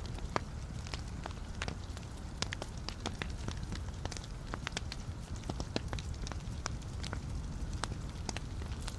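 Wood fire burning in a fireplace: a steady low rumble of flames with frequent sharp, irregular crackles and pops from the logs.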